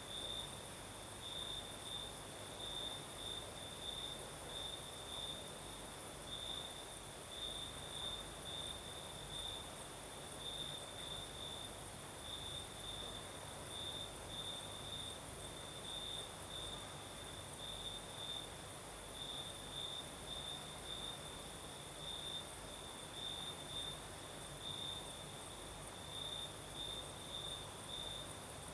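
Crickets singing at night: one chirps in quick rhythmic pulses at a steady pitch over a continuous high insect hiss, with a faint low rush of night breeze.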